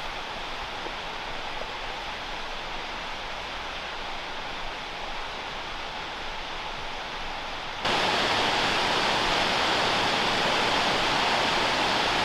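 Rushing water of the South River and its waterfall, a steady noise that jumps suddenly louder and brighter about eight seconds in.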